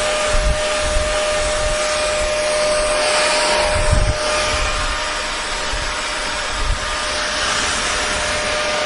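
Hair dryer running steadily: an even rush of blown air with a constant motor whine, and a few brief low rumbles.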